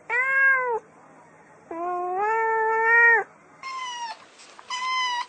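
Cats meowing: four drawn-out meows, the second the longest at about a second and a half, the last two higher-pitched.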